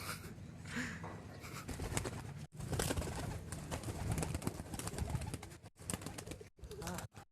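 Domestic racing pigeons close by, heard over a dense, noisy rustle full of small clicks.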